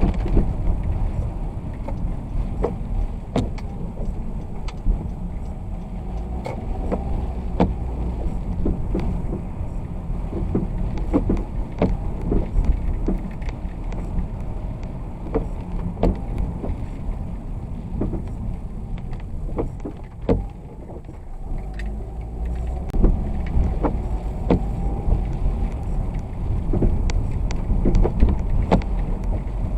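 Vehicle driving in the rain: a steady low road and engine rumble with scattered sharp ticks, raindrops striking the camera or windshield. The rumble briefly drops about two-thirds of the way through, then picks up again.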